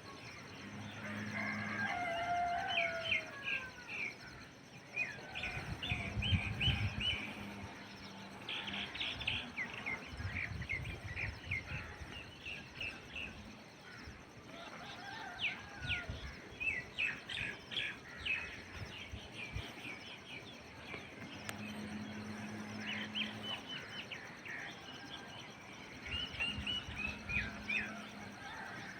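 Small birds chirping in quick repeated trills, call after call, with a low hum that comes and goes.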